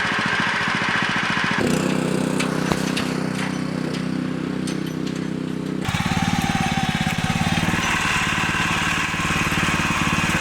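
Small petrol engine of a garden machine running steadily. Its tone changes abruptly twice.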